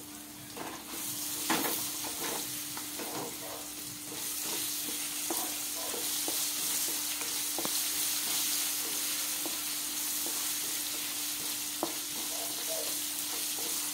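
Diced potatoes, onions and green chillies sizzling in oil in a kadai, stirred with a spatula that scrapes and taps against the pan. The sizzle grows louder about a second in and again around four seconds.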